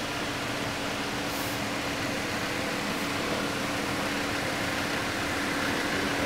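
A vehicle engine running with a steady hum over an even rushing noise, rising slightly in level.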